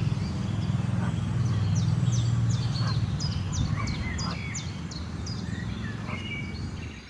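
Birds chirping outdoors in a quick run of short high calls, about three a second, that fades out near the end. Under them runs a low steady rumble.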